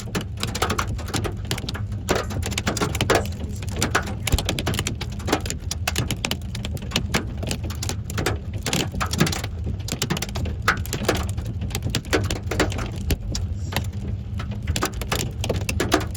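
Hailstones falling in a storm and striking hard surfaces in dense, irregular sharp clacks, over a steady low rumble.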